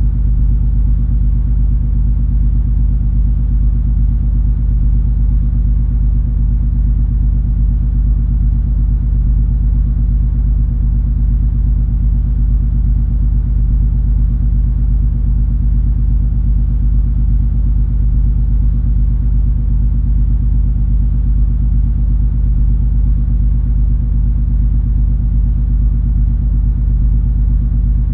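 Cruise ferry MS Color Fantasy under way: a steady low drone of its engines, a deep rumble with a constant hum over it that never changes.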